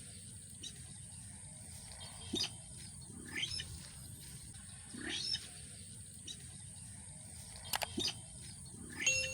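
A bird call repeated about every one and a half seconds, each a short call sweeping down in pitch, with a couple of sharp clicks between calls.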